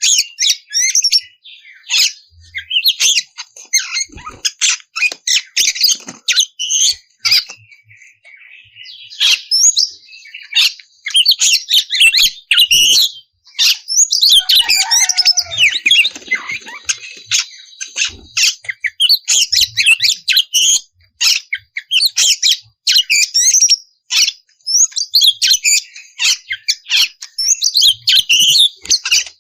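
Oriental magpie-robin singing a loud, continuous stream of rapid, varied whistles, chirps and sharp clicky notes, with a harsher rasping stretch about halfway through.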